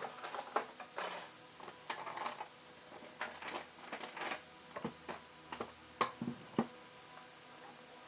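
Irregular light knocks, taps and clicks, with a few short scrapes, as of wooden pieces and hand tools being handled and set down in a small workshop.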